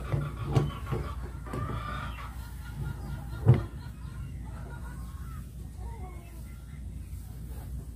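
Chickens clucking, with short arched calls near the start. There are a few sharp clicks, and a single loud knock about three and a half seconds in, from a starter motor's parts being handled during reassembly.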